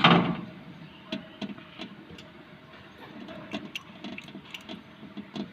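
Scattered light clicks and taps, as hands handle the wiring and parts of a diesel generator's starter circuit.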